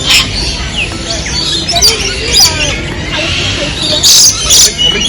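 Captive birds squawking: about five short, loud, harsh calls over a background of other bird calls and faint voices.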